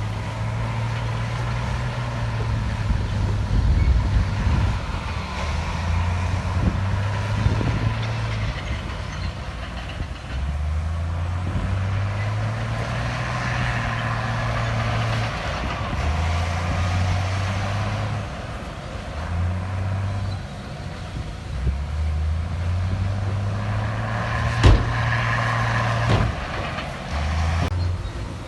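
Heavy diesel engine of earthmoving equipment working, its pitch rising and falling between two levels every few seconds as it takes up and drops load. A single sharp clank near the end.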